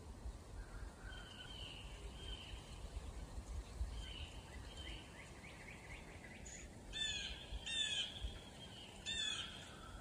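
Wild birds calling: several thin, high calls at first, then three louder calls about seven, eight and nine seconds in.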